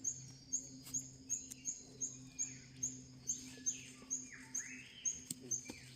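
Rainforest birds calling: a short high note repeats about twice a second, joined by sweeping calls in the middle, over a faint steady low hum.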